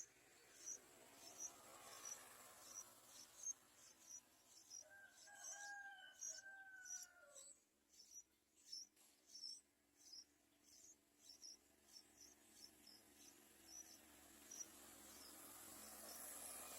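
Faint outdoor chirping: short high chirps repeating about twice a second, with one longer, lower call with several tones near the middle that falls in pitch at its end.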